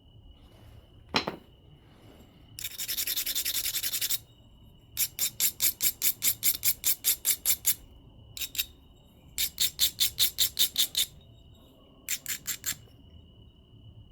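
Obsidian biface edge being rubbed with an abrading stone. There is a single tap about a second in, then one long scrape, then runs of quick rasping strokes at about six a second, typical of grinding the edge to prepare striking platforms.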